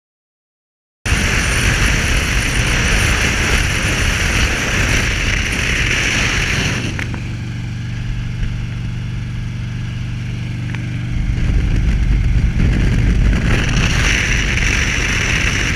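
After a second of silence, a motorcycle running at road speed: wind rushing over the microphone over a steady engine drone. For a few seconds midway the wind noise eases and the engine's steady hum comes through more clearly.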